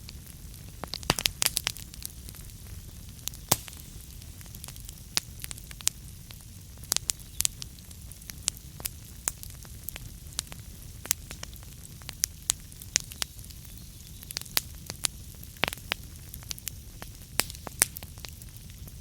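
Wood fire burning in a fireplace: sharp, irregular crackles and pops of burning logs, several a second, over a low steady rumble of the flames.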